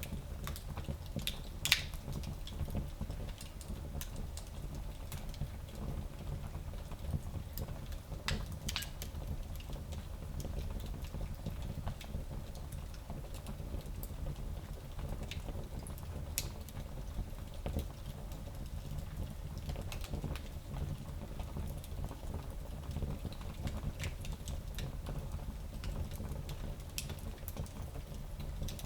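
Wood fire burning in a small fireplace: a steady low rumble of flames with scattered sharp crackles and pops, the loudest about two seconds in.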